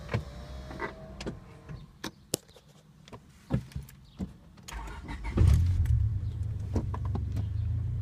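A few scattered clicks, then about five seconds in a four-cylinder car engine with an aftermarket intake manifold, throttle body, cold air intake and 4-2-1 headers cranks briefly and fires. It settles into a steady cold-start idle.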